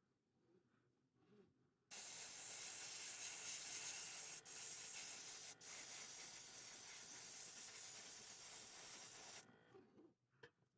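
Airbrush spraying paint: a steady hiss of air starting about two seconds in and lasting about seven and a half seconds, with two brief breaks. The airbrush, by the restorer's account, wasn't working properly and gave a poor paint finish.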